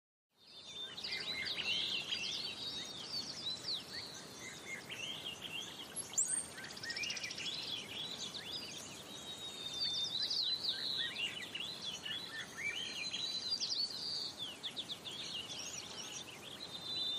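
Several birds chirping and singing in quick overlapping phrases over a soft steady hiss, beginning about half a second in.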